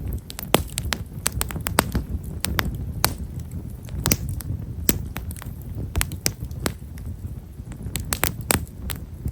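Campfire of Himeshara (Japanese stewartia) firewood crackling with fine, rapid pops, irregular and several a second, over a steady low rumble.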